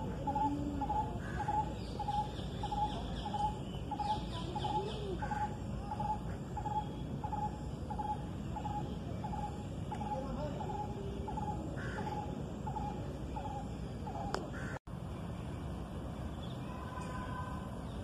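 A bird calling one short note over and over, about two a second, stopping about 14 seconds in, over a steady background hiss.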